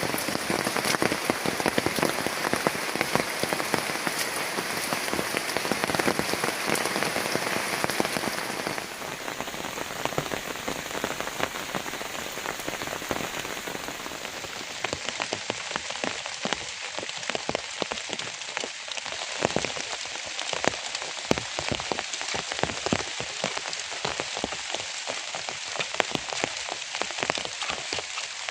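Steady rain, with many separate drops striking close by. It gets quieter about a third of the way in and sounds duller from about halfway on.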